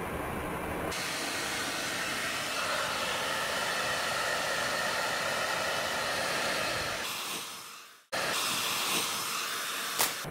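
Hair dryer switched on about a second in and running steadily. The sound drops out abruptly about eight seconds in, and the dryer noise comes back with a short click near the end.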